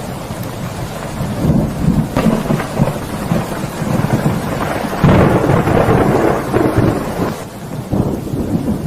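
Storm noise: rumbling wind and heavy rain, surging louder about two seconds in and again around five seconds.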